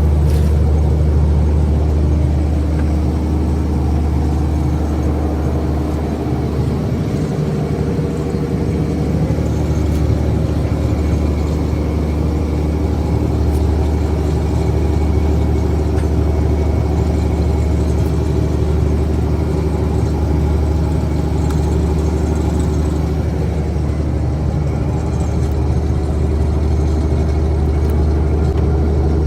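Fishing boat's engine running steadily, a loud, even low drone with a constant pitch.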